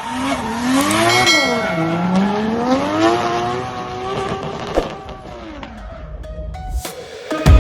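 Drift car's engine revving up and down again and again under hard throttle while the tyres squeal through a slide, fading away near the end. Loud music cuts in at the very end.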